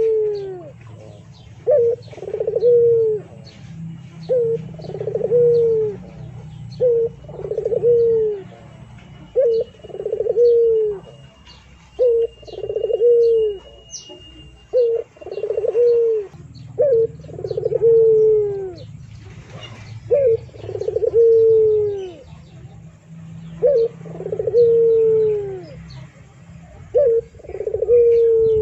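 A bird repeating a low two-part call roughly every two to three seconds, each a short note followed by a longer falling one, with faint higher chirps and a low steady hum underneath.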